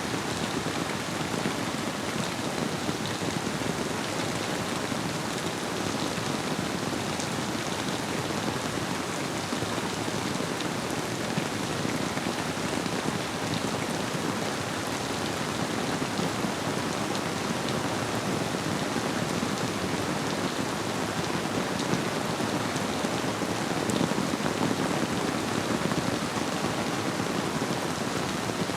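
Steady rainfall, a dense even hiss dotted with small ticks of single drops, blended with the flow of a river.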